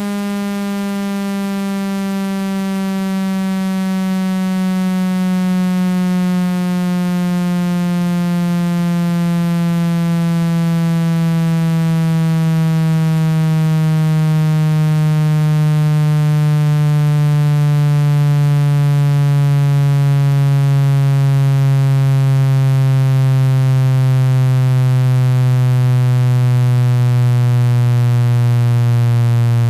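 Electronic speaker-cleaning tone: a loud, buzzy low tone rich in overtones, gliding slowly and steadily down in pitch. It is played through a phone's speaker to vibrate trapped water and dust out of the grille.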